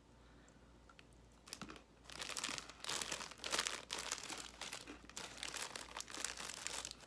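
Crunching of a Stauffer's animal cracker being chewed, a dense run of crisp crunches starting about two seconds in.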